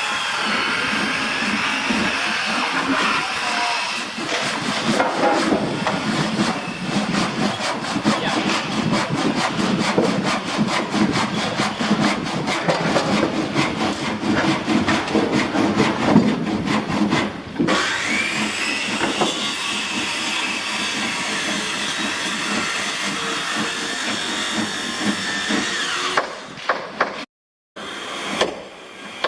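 Power tool cutting wood, its motor running steadily with a rapid rasping from about 4 s to 17 s. Around 18 s the motor's whine rises as it speeds up again, and the sound drops out briefly near the end.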